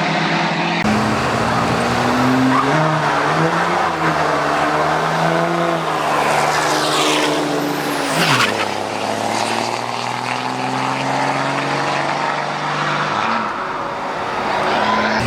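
A drag-racing vehicle's engine at full throttle, its pitch stepping up and down several times, then passing close by about eight seconds in with a sharp fall in pitch, followed by a lower steady engine sound.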